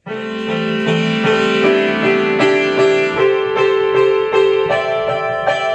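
Piano music: a keyboard intro playing a melody with chords.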